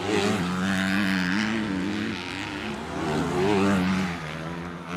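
250cc grasstrack dirt bikes racing, their engines revving with a wavering pitch. The sound swells twice, loudest about three and a half seconds in.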